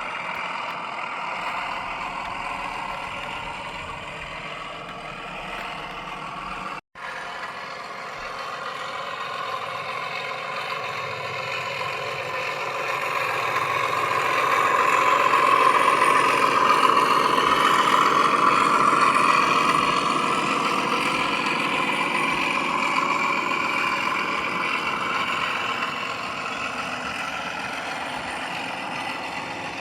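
Sound-fitted model Class 31 diesel locomotive playing its recorded engine sound through the model's speaker, a steady diesel running. It cuts out for an instant about seven seconds in, then swells louder in the middle and eases back down.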